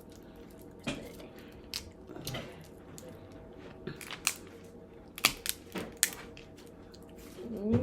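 Shellfish shells being cracked and pulled apart by hand: a run of sharp, irregular cracks and snaps with some crunching.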